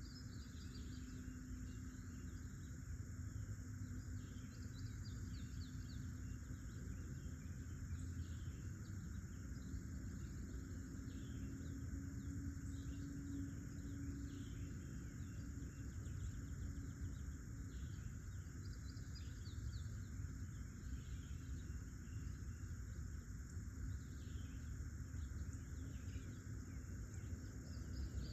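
Outdoor nature ambience: a steady chorus of insects, with many short bird chirps over it throughout and a low rumble underneath.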